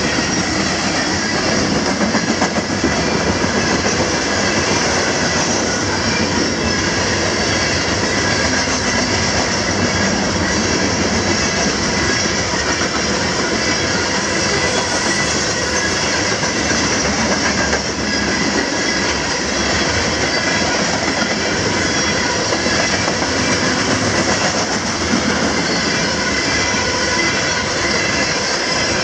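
Loaded coal train rolling past at a steady speed: a continuous loud rumble of steel wheels on rail with clicking over the rail joints.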